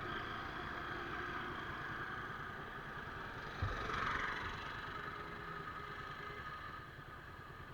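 Motorcycle engine running steadily, with a sharp thump about halfway through and a brief louder rush of noise just after it; the sound eases off near the end.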